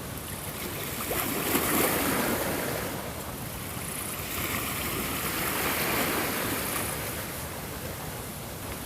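Ocean waves washing onto a shore, the surf swelling twice and easing off between.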